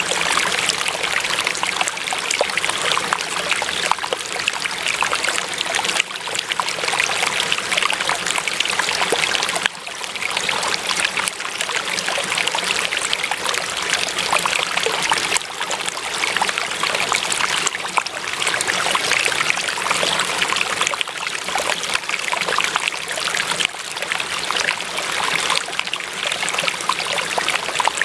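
Running water in a small stream, a steady trickling.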